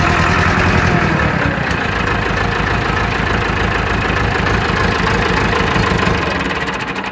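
Massey Ferguson 275's Perkins diesel engine running rough with a rhythmic miss, winding down near the end. The owner takes the miss for an injector starving one cylinder of fuel.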